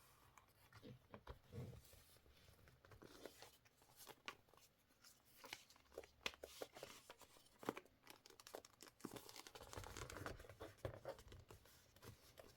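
Quiet paper handling at a desk: paper rustling and crinkling, with a series of light taps and clicks and some tearing.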